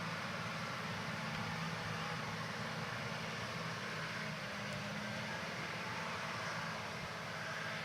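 John Deere 8000R-series tractors' diesel engines running steadily under load while pulling field cultivators, a low steady drone over an even hiss.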